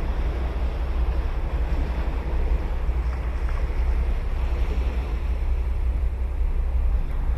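Ocean waves breaking and washing up the beach in a steady rush, with wind rumbling on the microphone.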